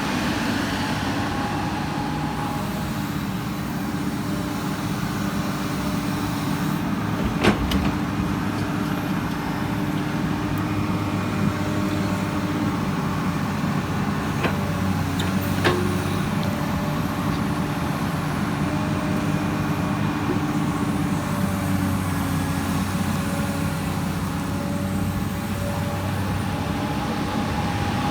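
Komatsu PC200 excavator's diesel engine running steadily, with a few sharp knocks, the loudest about seven seconds in and two more around fifteen seconds in.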